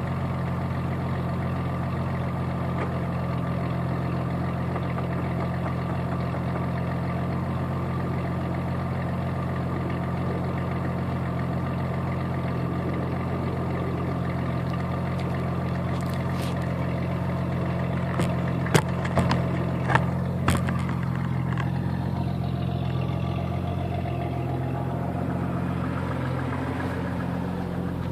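Jeep Cherokee's 4.0-litre straight-six idling steadily through a 2.5-inch exhaust with a Thrush Turbo muffler. A few sharp clicks or knocks come about two-thirds of the way through.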